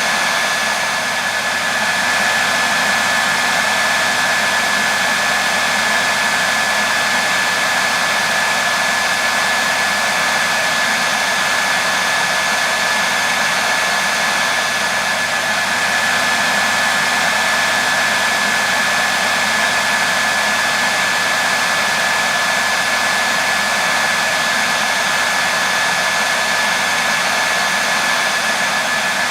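Hair dryer running steadily: an even rushing airflow with a thin, steady whine. It does not change.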